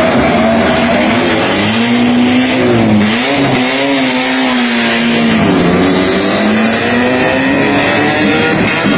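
Racing car engines at high revs on a circuit, the pitch climbing and dropping several times, with dips about three seconds in and again past the middle.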